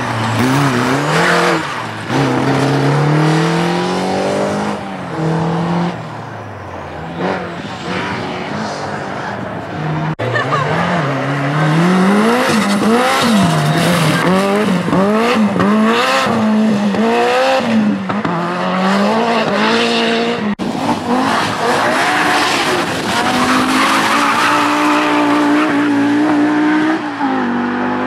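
Group B rally car engines at full throttle: the pitch climbs through each gear and drops at the shifts, with quick throttle blips and lifts in the middle stretch. The sound cuts abruptly from one car to another about ten and about twenty seconds in.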